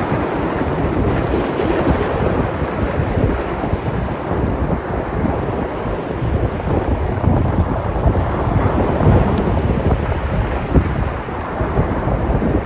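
Sea surf: waves breaking and washing in a steady rushing noise, with wind buffeting the microphone.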